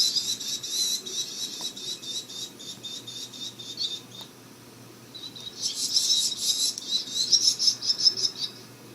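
Rapid high-pitched chirping in fast, even pulses, in two long runs with a lull in the middle.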